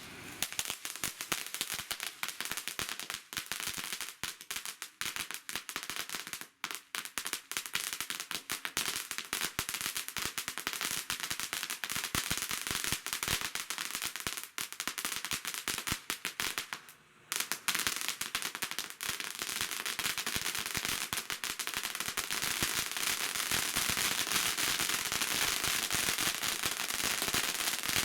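Liberty Bell Purple Pulsar fountain firework burning with rapid, dense crackling and hiss. It breaks briefly past the middle, then thickens into a steadier crackle.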